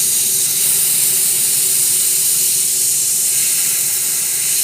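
Steady hiss of air or steam blowing from a tool, even in level, with a faint steady hum underneath.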